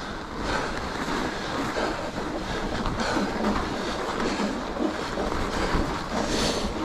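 Wind rushing over the microphone and tyres rolling on a packed, groomed snow trail as a mountain bike is ridden, a steady unbroken noise that rises and falls.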